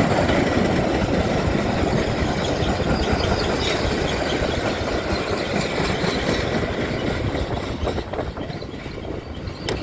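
A train passing on the rails: a steady rumble of wheels and running gear that slowly fades over the last couple of seconds.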